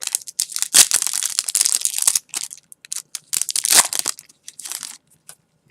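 Plastic packaging around trading cards crinkling and tearing as it is opened: a dense spell of crackling for about two seconds, another burst near four seconds, then lighter crinkles.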